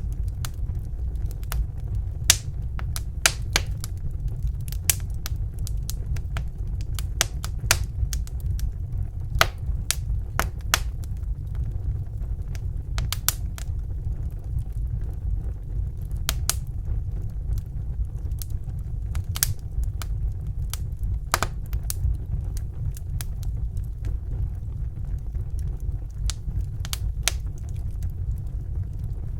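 Wood fire burning in a fireplace: irregular sharp crackles and pops, sometimes several in quick succession, over a steady low rumble of the flames.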